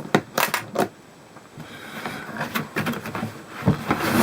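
Plastic tool carry case being opened: a few sharp clicks as its plastic catches are undone, then the lid and contents shuffling and knocking, with the loudest knock near the end.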